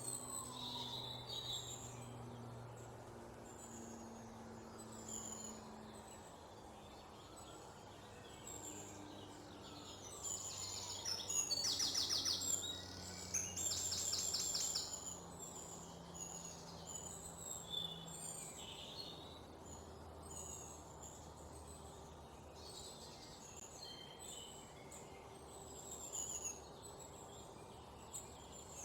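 Several wild birds chirping and calling in short high notes, with a louder run of rapid repeated notes a little before halfway through. A faint low hum lies underneath.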